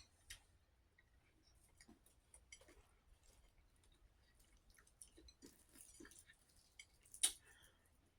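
Faint chewing and mouth sounds: soft, scattered wet clicks with one sharper click about seven seconds in.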